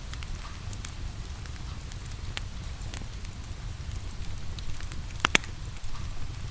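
Wood fire crackling, with scattered sharp pops and one loud double pop about five seconds in, over a steady low rumble of fire and rain.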